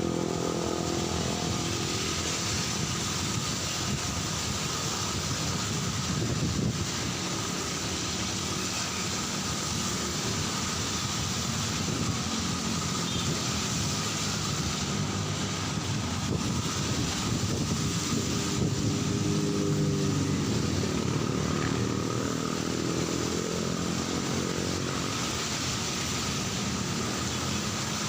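Steady rain on a city street with traffic passing, mostly motorcycles and cars; a vehicle engine passes close about 18 to 22 seconds in.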